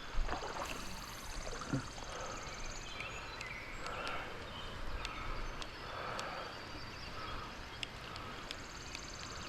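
Steady rain and flowing creek water, with scattered small clicks.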